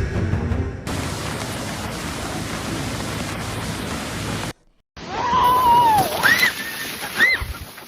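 Rushing floodwater, a steady heavy noise of water. After an abrupt cut there is more water noise, with a long high cry and then two short rising-and-falling cries.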